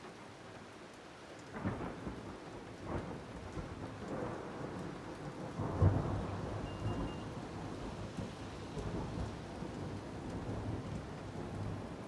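Thunder rumbling over steady rain: a deep rumble begins about a second and a half in, peaks in a loud clap a few seconds later, then rolls on and slowly fades.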